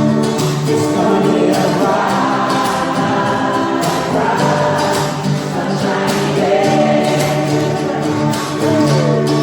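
A choir singing gospel-style church music with instrumental accompaniment and a steady beat.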